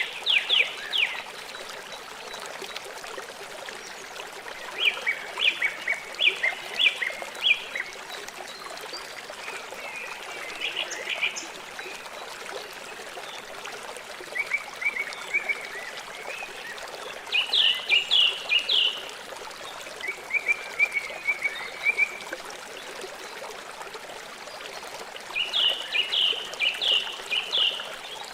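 A river's water running steadily. About every three to five seconds a creature gives a quick series of short, high chirping notes lasting a second or two.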